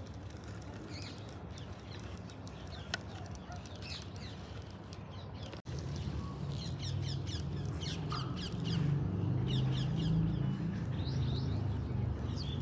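Birds chirping: many short, quick chirps, some in rapid runs, over a low steady rumble. The sound cuts out for an instant about halfway through, and the rumble comes back louder.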